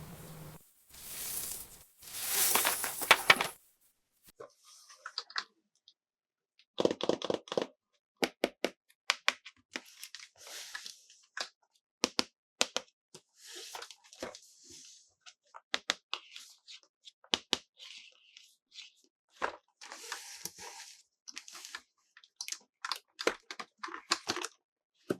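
Close-up handling of toy packaging and plastic parts: a stretch of tearing near the start, then scattered sharp clicks, taps and brief crinkling.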